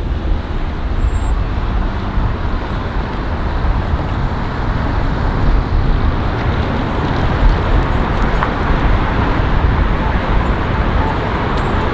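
Steady noise of road traffic at a city intersection, a continuous rumbling hiss with no distinct events.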